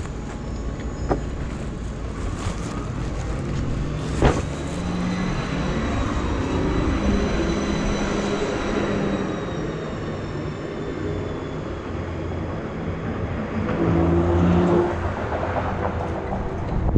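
A motor vehicle engine running steadily, with a single sharp click about four seconds in.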